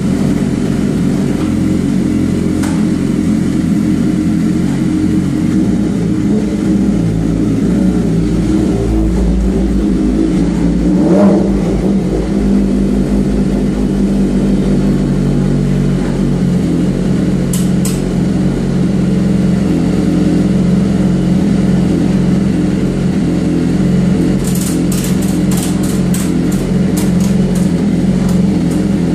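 BMW S1000RR's inline-four engine, fitted with a Mussan exhaust, running steadily on a dyno, with a short rise in revs about eleven seconds in. A run of sharp clicks comes near the end.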